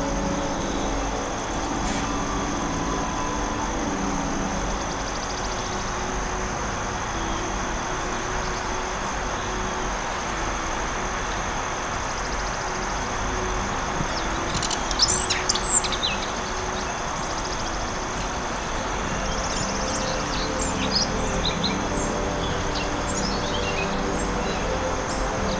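Forest ambience: a steady rushing wash of noise with birds chirping, a quick cluster of chirps about halfway through and a string of short calls near the end. A faint low held tone runs underneath.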